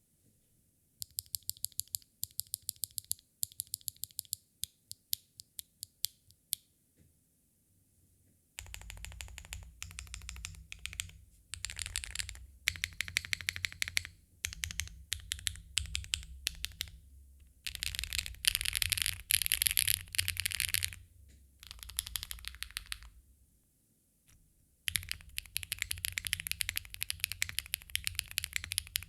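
A TKD Cycle7 mechanical keyboard being typed on; it has a carbon-fibre plate, plate and case foam, a bean mount and JTK keycaps. It starts with separate keystrokes, about three a second. After a short pause come bursts of fast typing with brief gaps, ending in an unbroken run.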